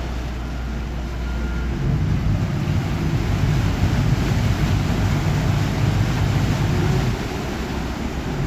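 Boat's engine rumbling as it comes in to dock, with the rumble growing louder about two seconds in, mixed with wind on the microphone.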